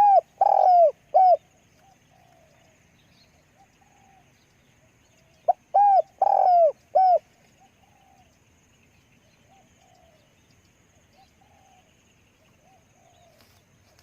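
Spotted dove cooing: two loud phrases of about four coos each, the first at the start and the second about five and a half seconds in, with fainter short bird calls in the gaps.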